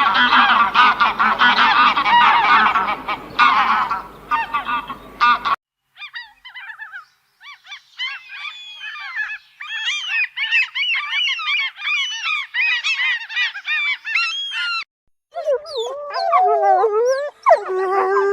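A flock of geese honking noisily over background noise. After a sudden cut about five and a half seconds in, many short, high chirping calls follow, and lower wavering whining calls begin near the end.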